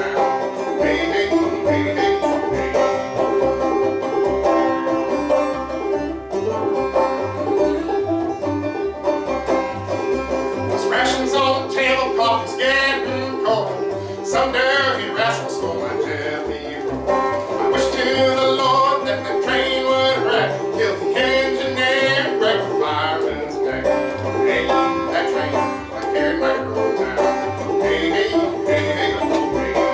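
Banjo picking an old-time tune at a steady pace, with repeating low bass notes underneath.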